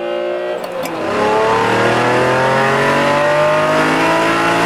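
Twelve-cylinder supercar engine at full throttle, heard from inside the cabin. About a second in it pulls hard and its pitch climbs steadily through one gear in a rolling-start acceleration.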